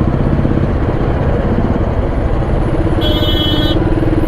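Royal Enfield Classic 350 single-cylinder engine running at low speed with a steady, rapid thump, amid road traffic. A vehicle horn sounds briefly about three seconds in.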